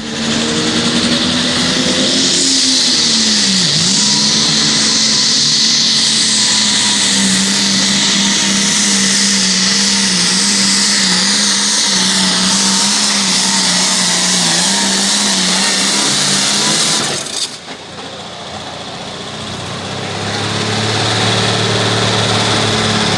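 Powerful tractor engine running hard at high revs with a steady, high, whining note that dips briefly about three seconds in. It cuts off suddenly near 17 seconds, and another engine sound builds up near the end.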